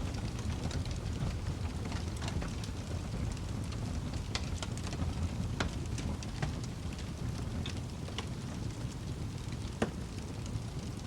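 Wood fire in a fireplace crackling, with a steady low rumble of flames and scattered sharp pops, the loudest pop near the end.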